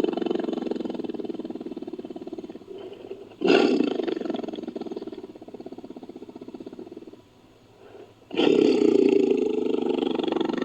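Bengal tiger roaring, in repeated long, pulsing roars. One roar dies away, a fresh one starts sharply about three and a half seconds in and tails off into a brief pause, then another begins about eight seconds in.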